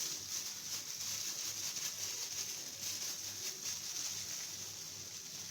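Steady sizzling hiss from a pot of hot liquid, with faint light ticks; it fades away near the end.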